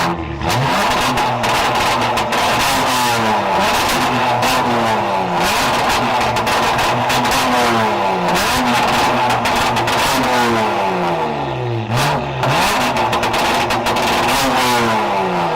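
Car engine revved hard over and over through a loud aftermarket exhaust, the pitch climbing and falling back about every one to two seconds, with rapid crackling pops throughout.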